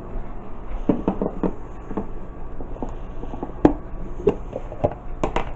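Irregular light knocks and clicks of small objects being handled, about a dozen over a few seconds, over a faint steady hum.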